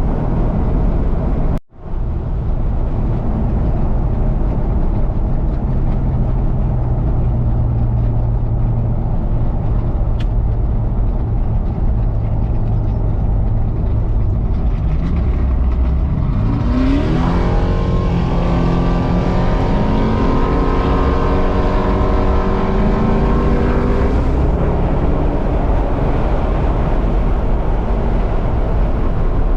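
Classic car driving on the road: a steady engine drone with road noise, broken by a brief cut just after the start. About halfway through the engine revs up in a rising note, holds the higher pitch for several seconds, then eases back to cruise.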